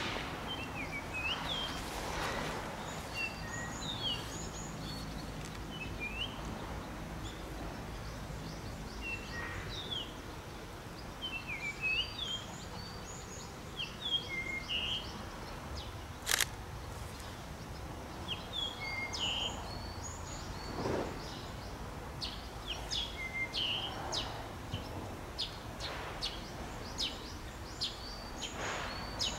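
Small birds chirping with many short, rising calls throughout, over faint outdoor background noise. A single sharp click about halfway through.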